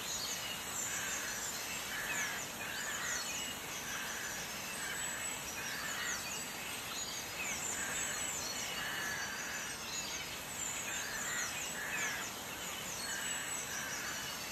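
Birds chirping over a steady background hiss: many quick, high falling chirps, with a lower call repeating every second or so.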